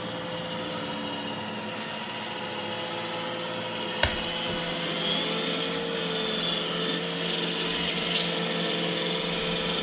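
iRobot Roomba E6 robot vacuum running close up: a steady whir of its vacuum motor and brushes, with a single sharp knock about four seconds in, after which the motor sound grows a little louder and its pitch wavers.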